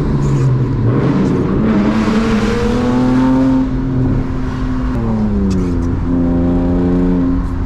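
A BMW E36 328i's 2.8-litre inline-six, heard from inside the cabin, pulling under acceleration. The revs climb for about two seconds, then fall away at a gear change about halfway through, and the engine runs on steadier in the next gear. A rushing hiss rises with the pull.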